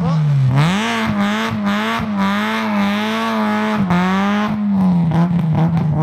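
Rally car's engine revved hard and held at high revs, its pitch wavering slightly, as the car sits stuck off the road in snow with its wheels spinning. The revs drop a little about four seconds in.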